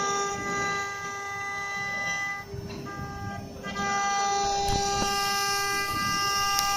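CNC router spindle running with a steady high-pitched whine over the rougher noise of the bit cutting. The sound drops back for about a second in the middle, then comes back up, with a couple of sharp clicks near the end.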